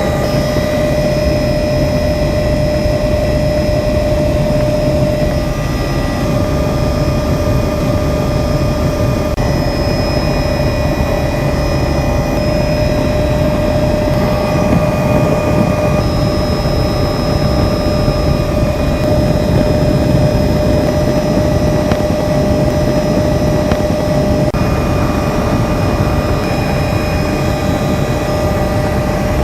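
Helicopter in flight, heard from on board: a loud, steady engine and rotor drone with a steady whine on top.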